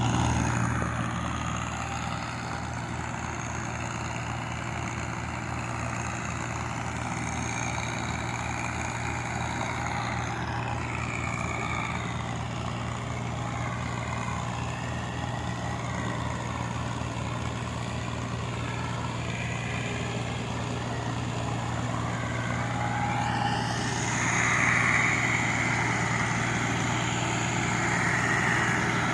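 Massey Ferguson 240 tractor's three-cylinder diesel engine running steadily with an even low chug, growing a little louder about 24 seconds in.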